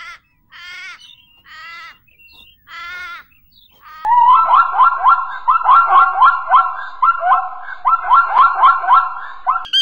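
Four short wavering animal calls, then, from about four seconds in, a plains zebra's barking call: a loud, fast run of rising yelps, three or four a second.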